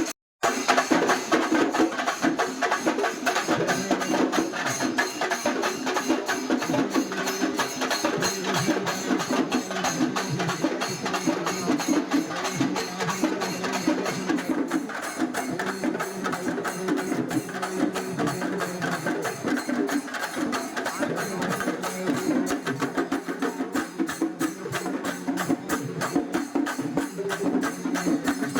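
Kerala temple festival percussion ensemble playing: fast, dense drum strokes over a steady, low held tone, with a momentary dropout just after the start.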